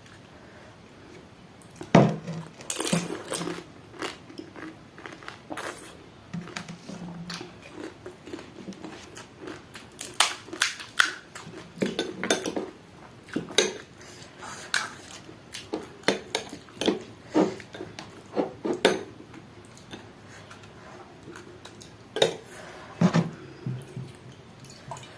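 Dishes and cutlery clinking and knocking irregularly as a pani puri plate and bowl are handled, with a sharp knock about two seconds in and clusters of clinks through the middle.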